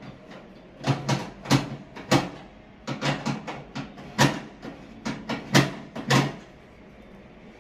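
An irregular series of about a dozen sharp knocks and clunks over about five seconds, with a steady low hum underneath.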